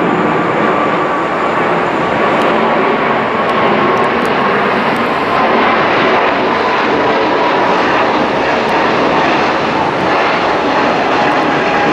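Boeing 777's twin GE90 turbofan engines at takeoff thrust: a steady, loud roar with a whine that slowly falls in pitch as the jet goes by.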